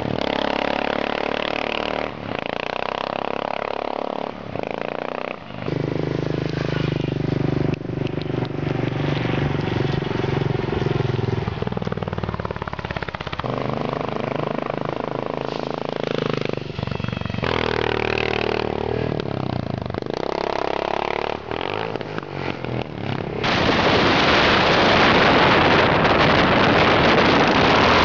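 1986 Suzuki Savage's single-cylinder engine running as the motorcycle is ridden, its note holding steady for stretches and changing pitch every few seconds. About five seconds before the end a loud, even rushing noise takes over.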